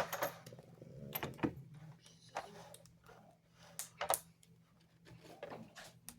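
Hands lifting an HO scale model locomotive out of its box packaging: a few sharp plastic clicks and taps at irregular intervals, the loudest right at the start, with light rustling between.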